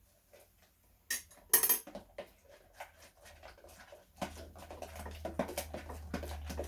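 Clinks and taps of utensils against a mixing bowl while slime is stirred: two sharp, loud clinks about a second in, then a run of lighter clicks and taps with a low hum from about four seconds in.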